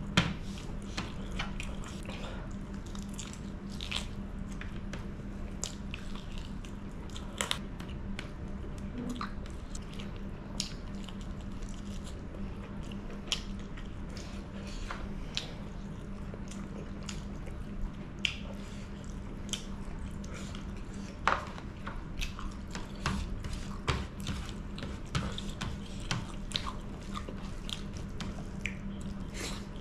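Close-up wet chewing and biting of bone-in chicken curry eaten by hand, with frequent irregular mouth clicks and smacks over a steady low hum.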